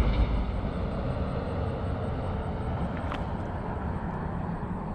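Steady low outdoor rumble, with a single short click about three seconds in.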